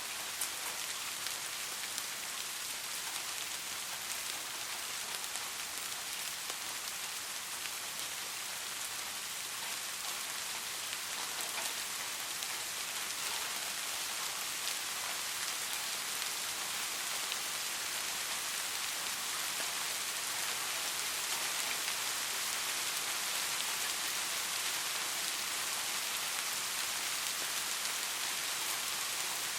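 Soft, steady rain falling, an even hiss with faint scattered drop ticks.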